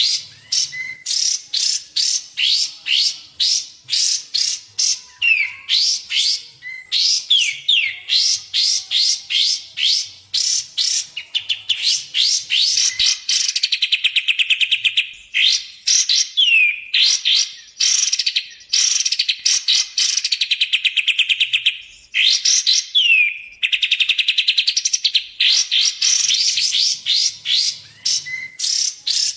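Recorded songbird song played as a bird-tutoring (masteran) track: rapid series of sharp chirps broken by fast rattling trills, a few seconds each, repeating without a break.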